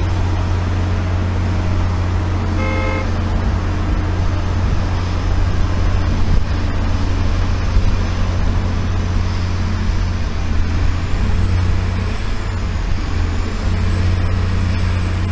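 Steady low engine rumble of a vehicle running close by, with a short beep about three seconds in.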